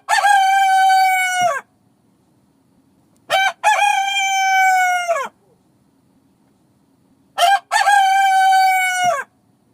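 Rooster crowing three times, evenly spaced. Each crow is a short opening note followed by a long held note that falls away at the end.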